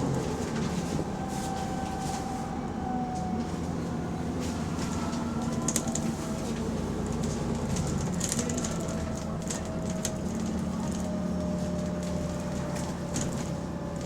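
Bus engine and drivetrain running as the bus drives along, heard from inside the bus. The engine note rises and falls a little, with faint drifting whines and occasional light rattles. The bus has an exhaust leak.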